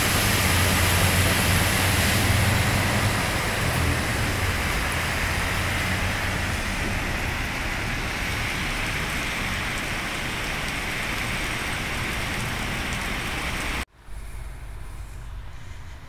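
Heavy rain falling, a steady loud hiss, with a low rumble of traffic under it for the first several seconds. About fourteen seconds in it cuts off sharply to a quieter rain hiss.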